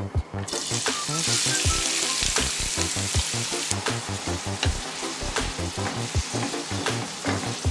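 Chopped onions sizzling in hot oil in a frying pan, starting suddenly about half a second in as they hit the oil, loudest for about three seconds and then settling to a steadier frying hiss. Stirred with a wooden spatula, with light scraping clicks.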